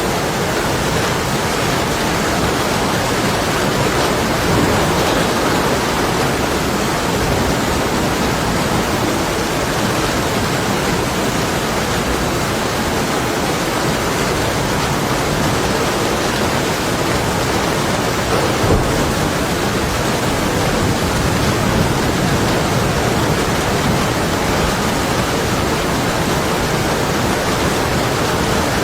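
Heavy rain beating against window glass in a steady, dense hiss, with distant thunder rumbling low underneath.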